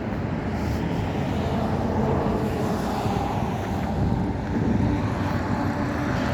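Wind buffeting the microphone over a steady low rumble of vehicle traffic, with a humming engine tone coming in about four and a half seconds in.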